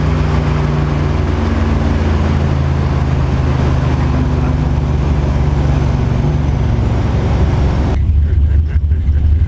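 The engine of a 700-horsepower drag car, heard from inside the cabin, runs steadily at a low, even pitch while the car cruises. About eight seconds in, the higher noise drops away suddenly, leaving mostly the engine's deep low note.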